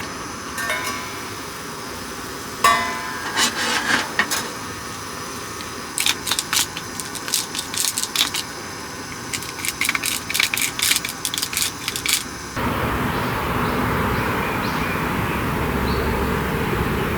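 A series of light clinks, knocks and small scrapes, one with a brief ringing note, like utensils and dishes being handled. About twelve seconds in it cuts to a steady rushing noise.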